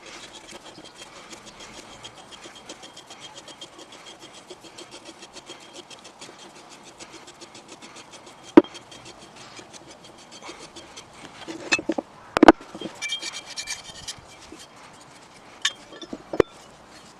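Fast, even hand strokes scraping or scrubbing the rusty metal of a pipe cutter, as in rust removal. In the second half come a few sharp, loud knocks of metal, with a short burst of harsher scraping between them.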